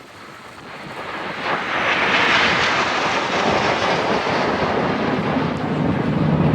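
Jet aircraft flying past: a loud rushing roar swells about a second in, peaks soon after, and holds steady, with a deeper rumble coming in near the end.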